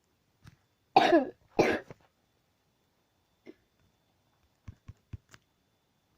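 A person coughing twice in quick succession, followed by a few faint small clicks.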